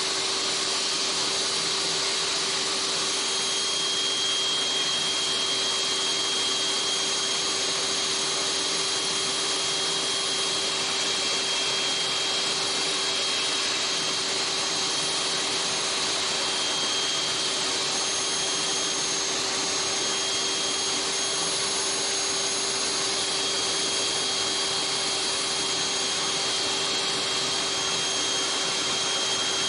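Electric power saw running at a steady, unchanging pitch while cutting a soft chamotte (fireclay) firebox board, which cuts easily, like polystyrene, so the motor does not labour.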